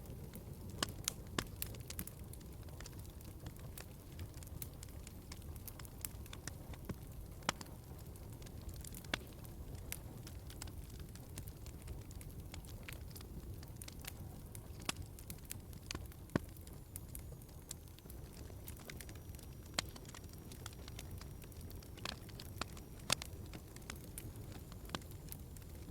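Wood fire crackling in a fireplace: a steady low rumble of flames with frequent irregular sharp pops and snaps.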